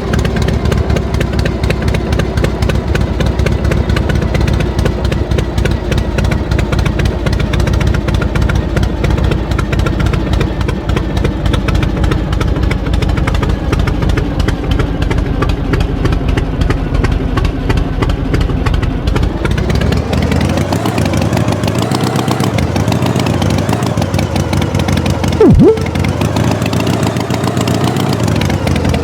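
Tractor engine running steadily, then revving up and down several times from about two-thirds of the way in. Near the end a brief, loud sound falls sharply in pitch.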